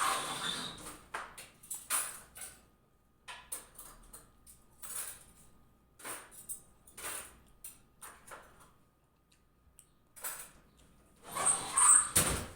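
Close-miked chewing and biting of raw eggplant: irregular bursts of crunching with short pauses between them, the loudest near the end.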